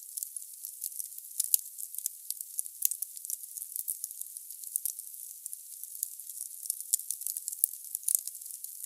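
Wood logs burning in a fireplace, crackling with many irregular sharp pops over a steady hiss.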